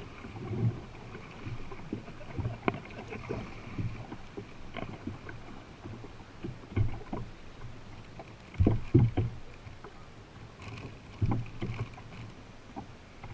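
Canoe being paddled: irregular paddle splashes and hollow knocks of the paddle against the hull, the loudest cluster of knocks about nine seconds in.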